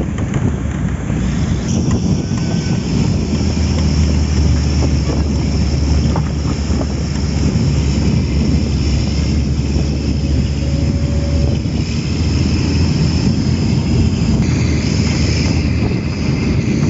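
A road vehicle on the move: a steady low rumble of engine and road with wind buffeting the microphone. A thin, steady high-pitched whine runs above it.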